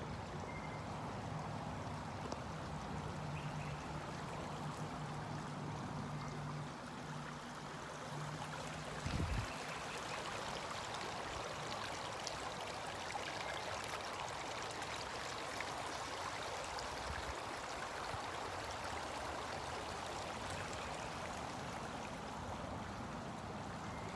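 A flowing stream rushing and gurgling steadily. A faint low hum sits under it for the first several seconds, and a brief low thump comes about nine seconds in.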